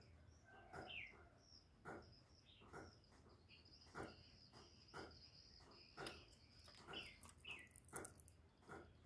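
Faint bird chirps, a few short sliding notes, over a steady high whine and soft clicks about once a second. No dove cooing.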